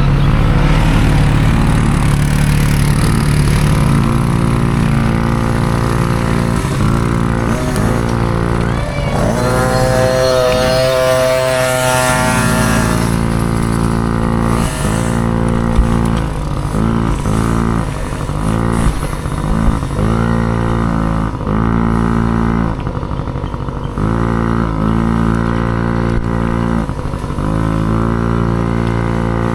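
Dirt bike engine running hard and revving up and down, its pitch dropping and climbing again every second or two as the throttle is chopped and reopened, with a longer high-revving run about ten seconds in.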